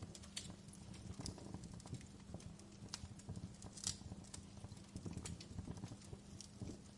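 Wood fire crackling: irregular sharp pops and snaps, a louder one about four seconds in, over a low rumble and a faint steady hum.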